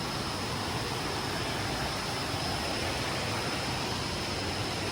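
Steady, even rush of fast-flowing stream water below a waterfall, close at hand.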